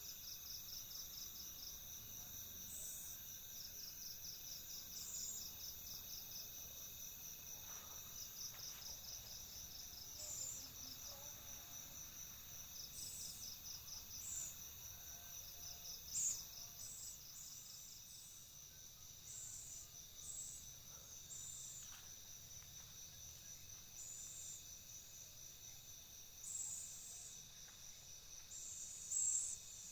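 Crickets trilling steadily in high pulsed runs, with short raspy bursts every second or two.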